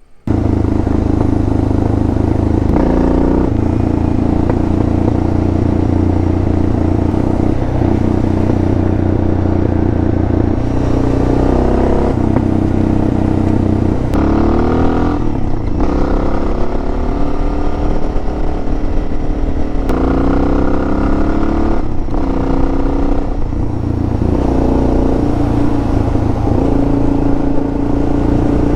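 Suzuki DR650's single-cylinder four-stroke engine running under way. It rises in pitch as the bike accelerates, several times over.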